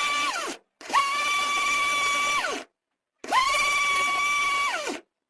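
Mixer grinder motor running in short pulses, a steady high whine that drops quickly in pitch each time it cuts off. It comes as three bursts of one to two seconds with brief silent gaps, and a fourth starts near the end.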